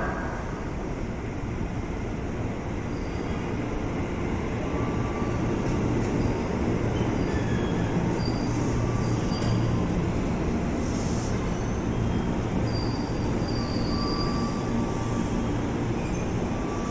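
Electric commuter train (KRL Commuter Line multiple unit) pulling into the station alongside the platform, a steady rolling rumble with a low hum that grows louder as it comes in. Short high-pitched squeals from the wheels come and go through the second half.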